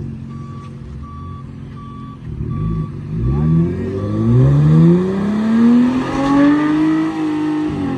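A vehicle engine revved up hard and held under load during a rope recovery pull on a truck stuck in mud, its pitch climbing from about three seconds in and falling away near the end. Before the rev, a warning beep repeats at a steady pace, a bit more than once a second.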